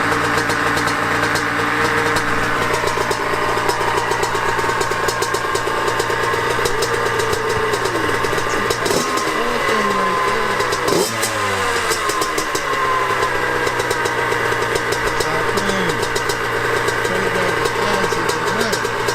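Dirt bike engine running at idle, with throttle blips about nine and eleven seconds in that sweep the pitch up and back down, and smaller wavers in the revs near the end.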